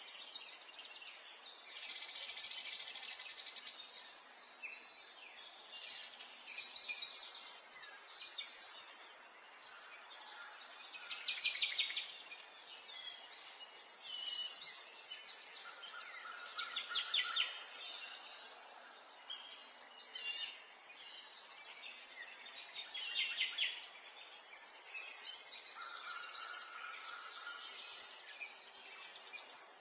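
Wild birds singing: repeated bursts of rapid, high trills every second or two, now and then with a short, steady, lower note.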